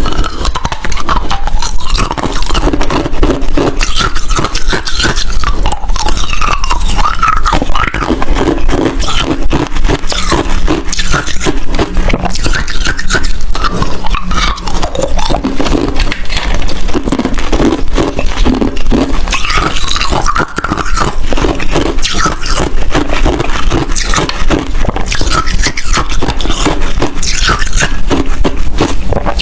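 Ice being chewed and crunched close to the microphone: dense crackling bites that keep on without a break.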